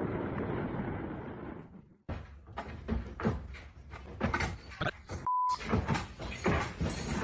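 A steady rushing noise fades out about two seconds in. Then comes a run of irregular knocks, bangs and clatter, with a short beep in the middle.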